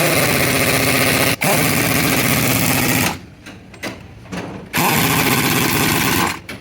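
A power tool with a rapid hammering action runs in three bursts of about one to two seconds each, cutting off sharply between them, with a few light knocks in the longest gap.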